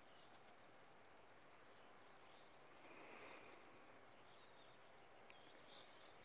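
Faint outdoor quiet: a soft steady hiss with a few distant small birds chirping, and a brief swell of hiss about halfway through.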